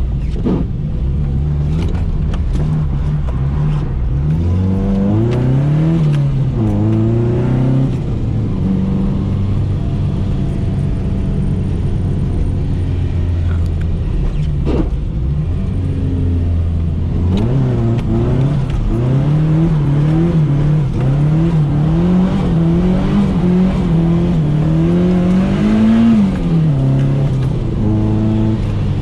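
Nissan 240SX (S13) engine revved up and down over and over, as in street drifting, with a steadier stretch in the middle before the rapid revs pick up again.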